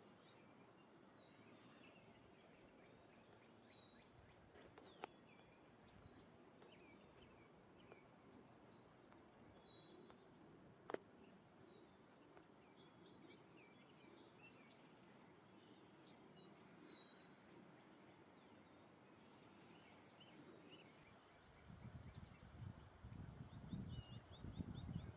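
Faint birdsong: several birds chirping, with short downward-sliding calls repeated every few seconds, and two sharp clicks. Near the end, a low rumble of wind buffeting the microphone comes in.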